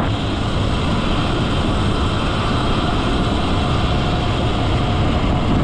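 Steady rushing wind on the microphone and riding noise from a bike moving along at speed, with no break.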